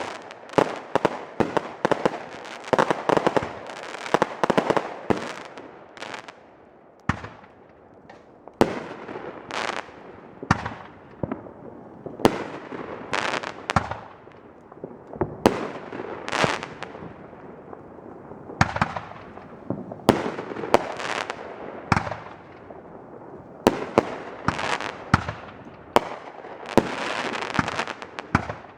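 Consumer aerial fireworks going off: a rapid volley of sharp shots and bursts, then single loud bangs about a second apart, each trailing off, with quicker clusters again near the end.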